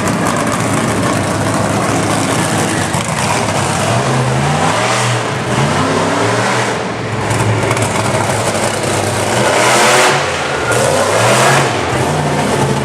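Monster truck engine revving loudly, its pitch repeatedly rising and falling, with the strongest surges about ten and eleven seconds in.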